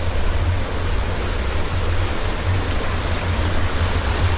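Creek water rushing steadily, with a low rumble underneath.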